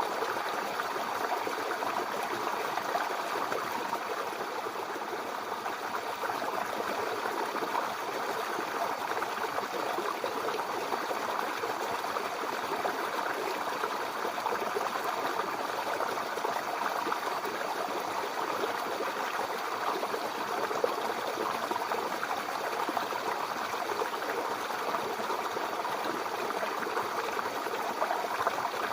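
Babbling brook: shallow water flowing and splashing over stones in a steady, even bubbling rush.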